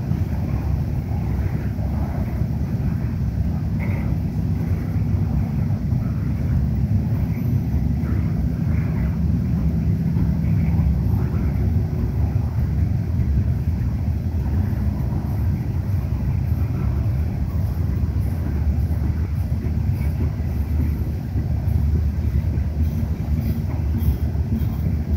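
Coal-loaded CSX open hopper cars rolling past, their steel wheels on the rails making a steady low rumble.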